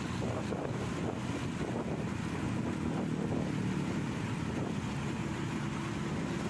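Steady wind noise buffeting the microphone, over a motorcycle's engine and road noise while riding.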